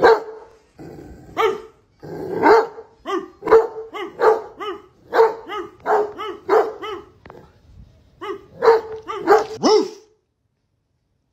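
A dog barking over and over, about fifteen short barks in quick runs with a brief pause between runs, then a sudden cut to silence near the end.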